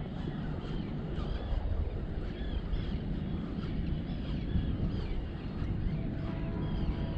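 Birds calling over and over in short, curving calls about once a second, over steady low wind rumble on the microphone.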